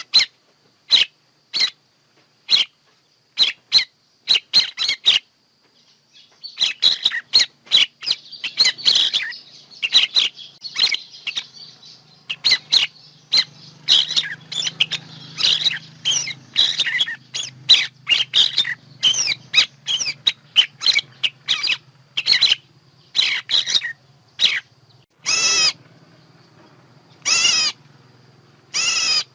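Birds calling: a rapid string of short, sharp chirps and whistles, thickest in the middle, then two longer wavering calls near the end. It is a bird-call recording of the kind played to lure birds into traps.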